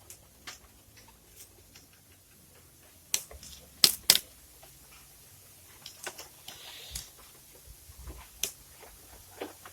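Scattered sharp clicks and knocks, with two loud ones close together about four seconds in.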